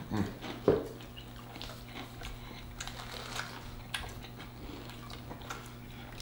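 Close-miked chewing of fried chicken sandwiches: irregular crisp crunches of the fried breading and wet mouth sounds, with one louder mouth sound just under a second in.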